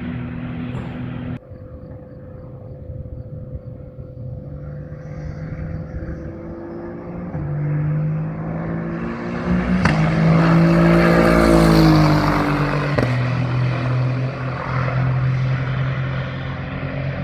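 GT race car engines running on track, with abrupt changes in sound as the shots change. About ten seconds in, a car passes close by, loudest and with its engine note sweeping up then down.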